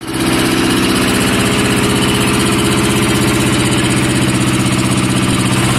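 Swaraj 724 tractor's two-cylinder diesel engine running steadily, with an even, rapid firing beat.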